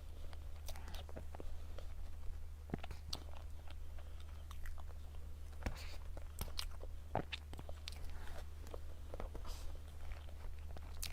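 Close-miked mouth sounds of someone eating cake: chewing, biting and scattered wet lip smacks and clicks, over a steady low hum.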